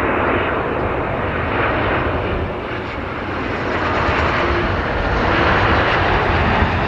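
Airplane engine noise: a continuous rumble that dips about three seconds in and swells again toward the end.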